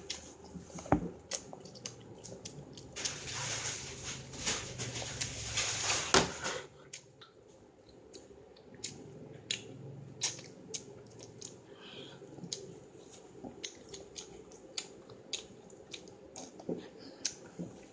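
Chewing gum being chewed close to the microphone: scattered soft wet clicks and smacks of the mouth, with a louder, hissy stretch about three to six seconds in.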